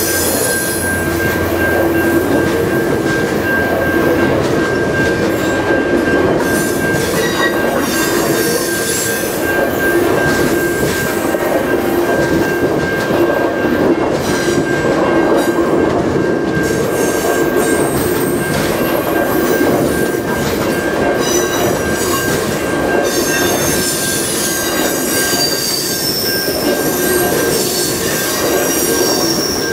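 The passenger cars of VIA Rail's The Canadian rolling past on steel rails with a steady, loud rumble of wheels. Wheels squeal in a high, held tone throughout, and sharper high squeals come in near the end.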